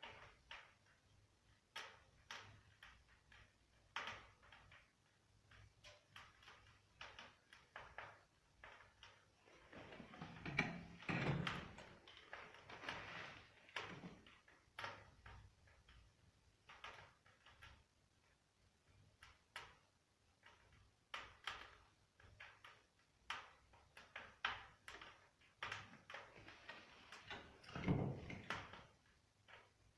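Softwood fire crackling in a closed fireplace insert's firebox, with many small irregular pops. Two louder knocks, about 11 seconds in and near the end.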